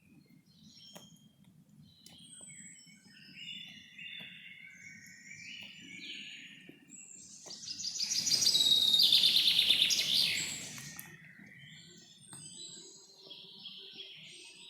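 Several birds calling and singing: scattered chirps and short phrases, with one loud, rapid run of repeated notes starting about eight seconds in and lasting a few seconds. A faint low rumble runs underneath.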